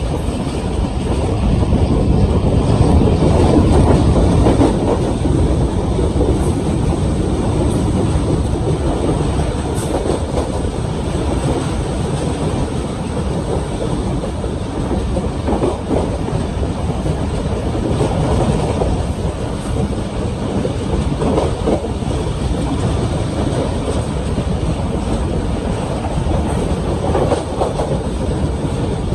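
Railcar train running along the track: a steady rumble with scattered clicks of the wheels over the rails.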